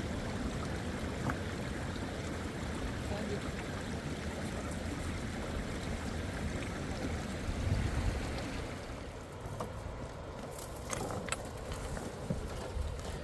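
Steady rush of a mountain river, heavy in the low end, with a few sharp clicks or knocks in the last few seconds.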